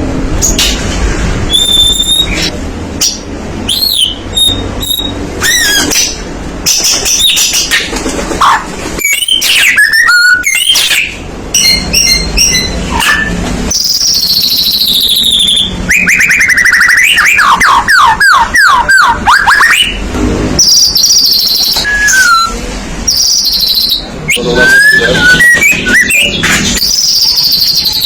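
White-rumped shama (murai batu) in full song: a loud, varied stream of clear whistles, quick trills and sweeping notes. There is a fast run of sweeping notes about two-thirds of the way through.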